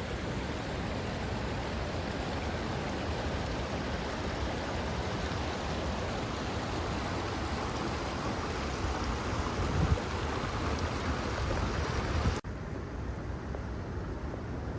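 Waterfall's rushing water, a steady dense roar with a brief low thump about ten seconds in. It cuts off abruptly near the end to a much quieter outdoor ambience.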